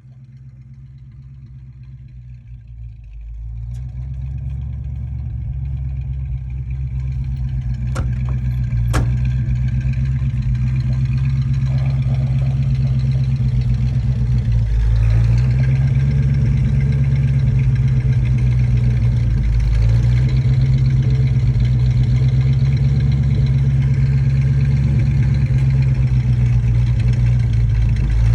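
1968 Ford Mustang engine idling through its dual exhaust, a steady low rumble that grows louder over the first several seconds and then holds, with a couple of brief dips in engine speed. Two sharp clicks come about a third of the way in.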